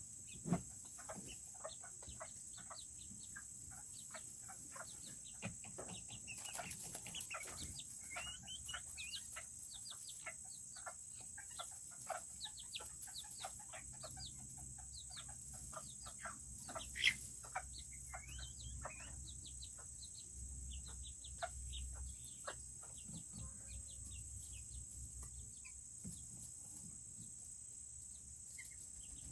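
Serama bantam chickens clucking and chirping, with many short, quick calls. The calls are busiest through the middle and thin out near the end.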